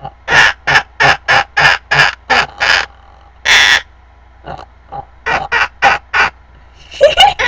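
Sun conure calling in a quick run of short, evenly spaced chirps, about three a second. A longer harsh squawk comes midway, then a few more short calls and a burst of noisy chatter near the end.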